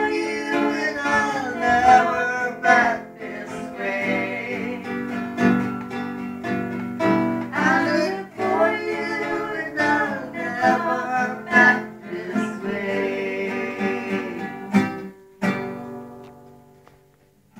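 Acoustic guitar strumming with a voice singing a folk song. A final strummed chord about fifteen seconds in rings out and fades away as the song ends.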